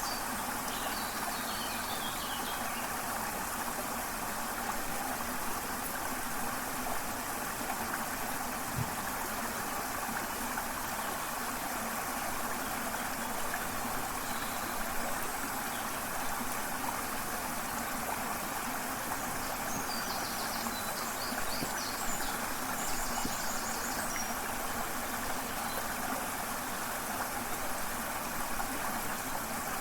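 Steady rush of a waterfall and flowing river, with a few short bird chirps near the start and again about two-thirds of the way through.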